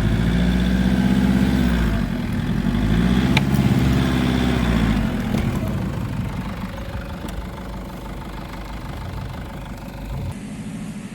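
Nissan Patrol Y61's engine revving up and down twice under load in the first five seconds, then dropping back to a lower, steady running.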